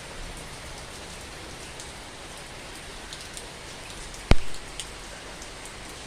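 Heavy rain falling steadily on a garden, an even hiss with occasional drips. About four seconds in comes one sharp, loud tap, the loudest sound.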